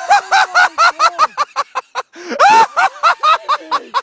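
Several people laughing hard in quick, high-pitched bursts, with a short break about halfway through before the laughter picks up again.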